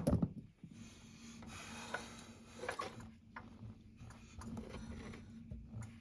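Handling noises: a sharp knock at the start, then scattered light knocks and rubbing over a faint steady hum.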